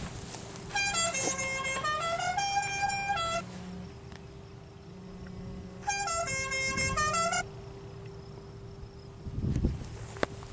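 A horn playing a short tune of stepped notes, heard twice, each phrase about two to three seconds long, over a low steady hum.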